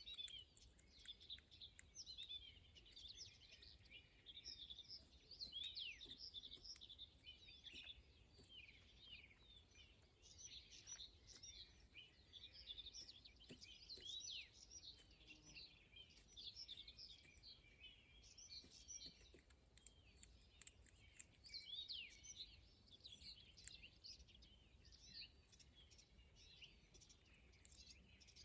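Small birds chirping and twittering constantly, many quick calls overlapping, faint and high-pitched. A few sharp ticks come about two-thirds of the way in.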